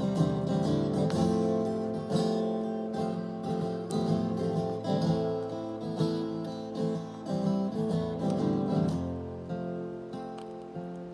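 Acoustic guitar strumming chords in an instrumental passage between sung lines. About nine seconds in the strokes thin out and the chords are left to ring and fade.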